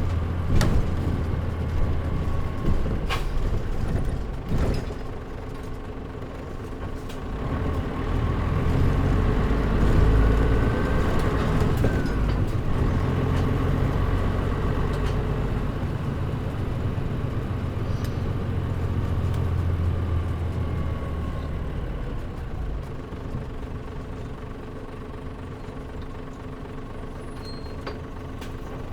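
A Mitsubishi Fuso Aero Star city bus's diesel engine and running noise, heard inside the cabin. There are a few sharp clicks in the first five seconds. The engine then pulls harder for about a dozen seconds before easing off and running quieter near the end.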